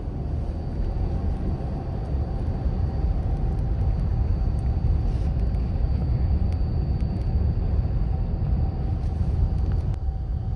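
A steady low rumble with a faint, constant high whine over it.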